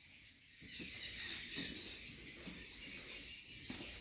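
Birds chirping and chattering faintly in the background, a steady mass of high calls that comes in about half a second in.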